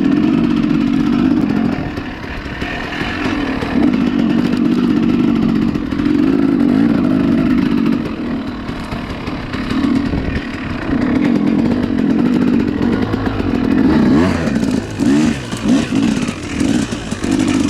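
Small dirt bike engine running as the bike is ridden, its pitch easing off and picking up. Near the end it is revved up and down several times in quick succession.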